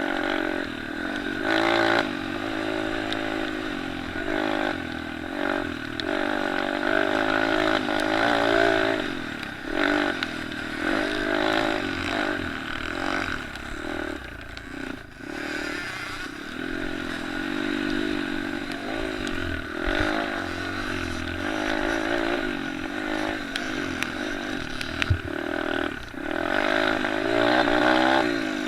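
Several small motocross engines of pit bikes and 50cc and 65cc dirt bikes racing, their overlapping engine notes repeatedly revving up and dropping off as the riders work through the course.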